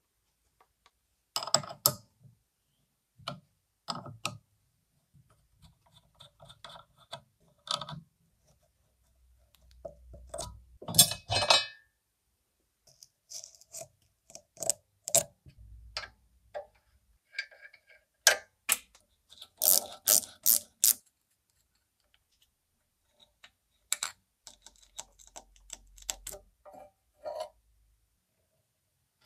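Metal parts being handled in a workshop: scattered clicks, clinks and light knocks, some in quick clusters, between stretches of silence.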